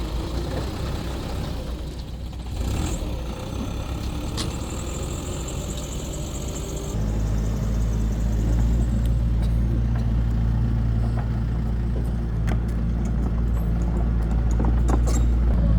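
Heavy diesel engine of construction machinery running. About seven seconds in the sound changes abruptly to a louder, steady low engine note, with scattered clicks and knocks near the end.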